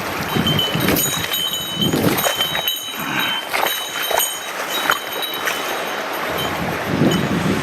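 Rushing mountain-stream water with wind buffeting the microphone in gusts, and scattered sharp clicks and clinks over it.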